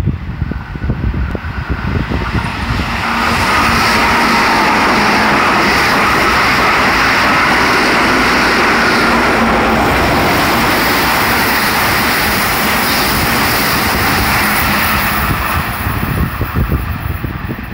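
Keihan 8000 series electric train running through the station without stopping: a loud, steady rush of wheels on rail that builds over the first three seconds and dies away about fifteen seconds in.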